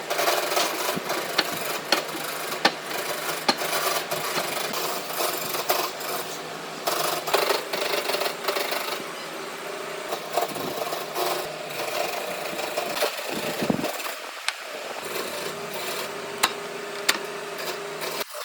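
Woodworking noise: a tool scraping and rubbing on wood, with many sharp knocks, stopping abruptly near the end.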